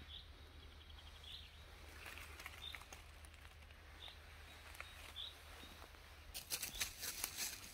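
A bird gives a short, high call about every second and a half. Near the end, quick crackling rustle of dry leaf litter as someone walks over it.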